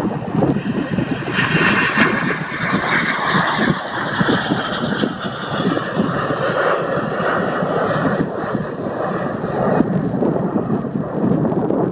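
Jet noise from the General Electric CF6-80C2 turbofans of an Airbus A310-304. A steady rush of engine noise carries a high whine that slowly falls in pitch.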